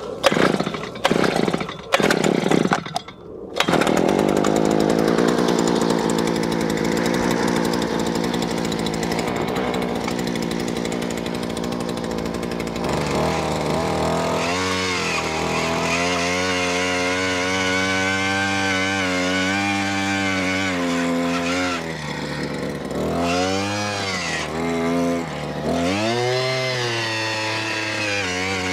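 A power tool's motor running hard after a few short bursts at the start. Its pitch sags and recovers several times as it bogs down under load.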